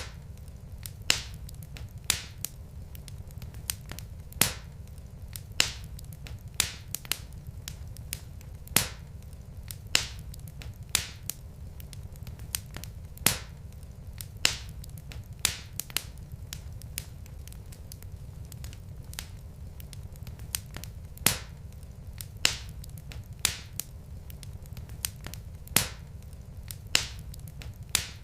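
Wood fire crackling in a fireplace: sharp, irregular pops roughly once a second over a low, steady rumble.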